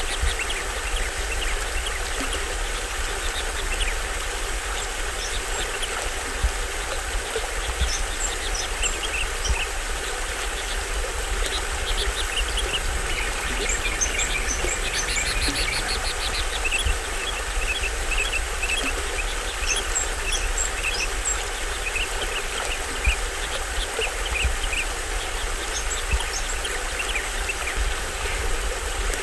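Small stream waterfall rushing steadily, with tropical forest birds chirping over it in short calls, one giving a rapid trill about halfway through.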